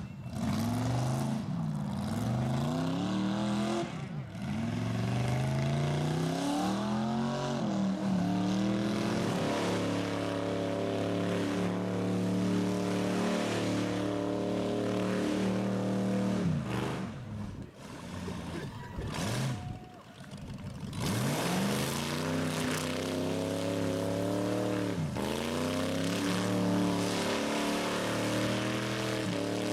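Rat rod's engine revving hard: pitch drops and climbs back several times, then it is held at high revs for long stretches, falling off and picking up again twice in the middle and once near the end.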